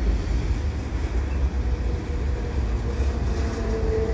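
Freight cars of a slow freight train rolling across a railway overpass: a steady low rumble, with a thin steady whine coming in about three seconds in.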